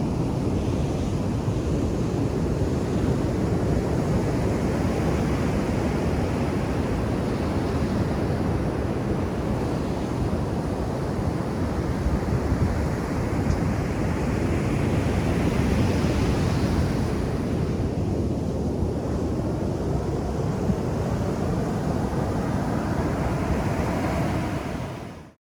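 Ocean surf breaking and washing ashore, a steady rush that swells with each incoming wave every several seconds. It fades to silence within a second near the end.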